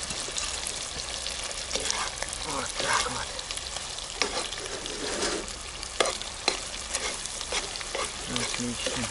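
Stewed beef, lard and fried onions sizzling in a hot kazan while a spoon stirs them, with repeated clinks and scrapes of the spoon against the pot.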